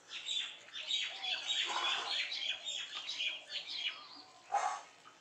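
Small birds chirping and twittering rapidly in many short, high notes, with a brief louder sound near the end.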